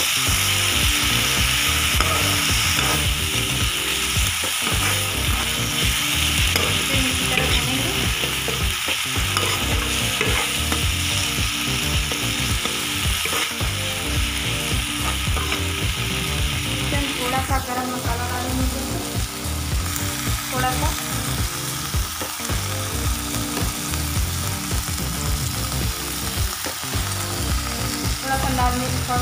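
Grated tomato, green chilli and onion sizzling in hot oil in a kadhai, stirred and scraped against the pan by a perforated steel spoon. The high hiss of the sizzle eases a little past halfway.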